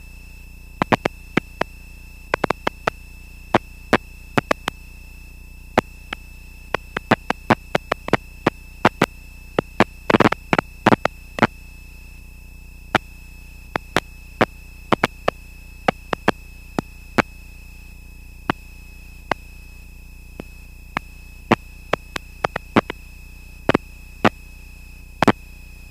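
Electrical hiss and hum on the aircraft intercom audio line, with a thin steady high tone, broken by dozens of irregular sharp clicks and pops, some in quick clusters.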